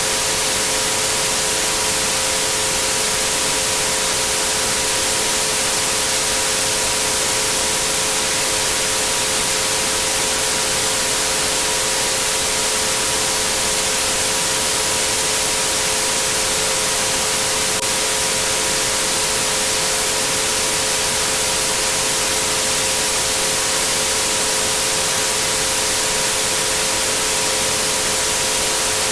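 Steady white-noise hiss with three pure sine tones at 432, 528 and 963 Hz held unchanging beneath it.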